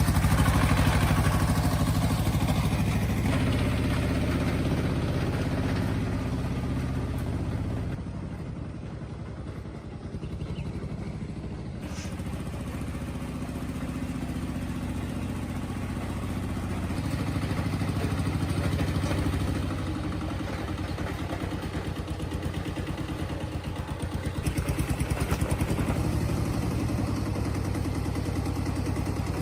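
An engine runs with an even, rapid firing pulse. It drops back about a third of the way in and rises again twice later on.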